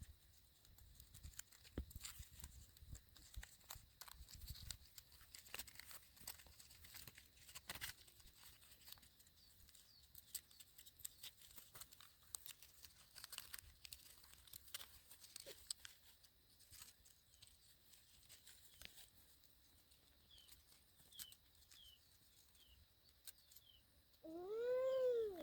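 Faint rustling and clicking of leaves and thin bamboo sticks being handled and torn by hand. From about twenty seconds in there are faint short bird chirps, and near the end one loud animal call, about a second long, that rises and then falls in pitch.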